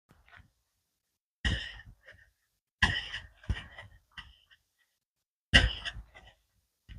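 A runner out of breath, exhaling hard close to the microphone: four loud, breathy puffs, each starting sharply and dying away quickly, with a few softer breaths between.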